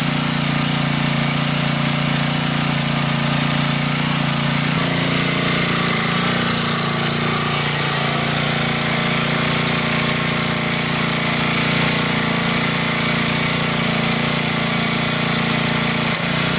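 Two-stroke chainsaw engine running steadily at a constant pitch, with no change in speed.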